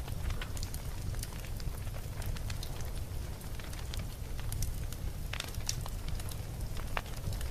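Campfire burning, with irregular sharp crackles and pops over a low steady rumble.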